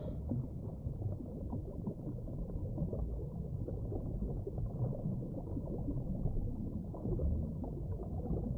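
Underwater ocean background noise, heard between whale calls: a low, even rumble with fine crackle and no call.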